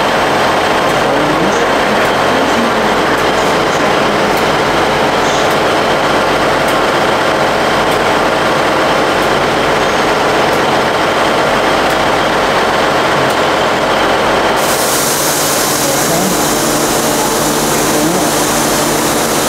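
A train running at a station platform: a steady, loud rumble with a held hum. About fifteen seconds in, a hiss sets in and stays.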